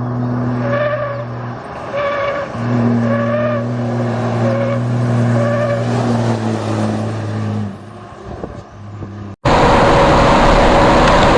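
A vehicle engine running with a steady low hum, while a short higher-pitched tone repeats about once a second. About nine seconds in it cuts abruptly to a louder, noisier engine sound.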